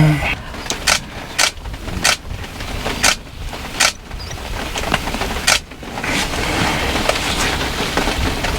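Safari vehicle's engine running low, with about six sharp clicks and knocks in the first six seconds, then a steadier rushing noise.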